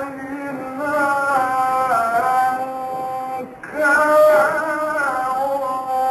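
A man's voice reciting the Quran in the melodic tajweed style, holding long notes that glide and ornament between pitches, with a short breath pause a little past halfway.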